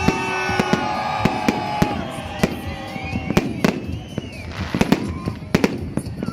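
Fireworks and firecrackers going off in rapid, irregular bangs and cracks, with music and voices underneath.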